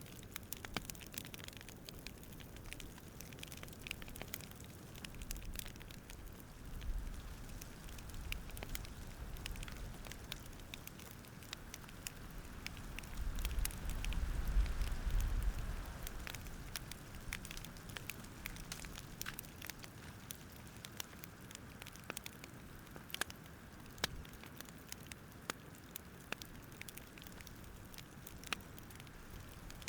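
Campfire crackling: irregular sharp pops and snaps over a soft steady hiss, with a low rumbling swell twice, loudest a little before halfway.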